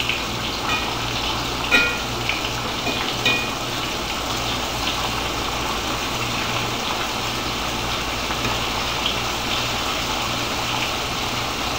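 Breaded steak pieces frying in hot oil in a large cast-iron skillet: a steady sizzle. A metal meat fork clinks against the pan a few times in the first few seconds.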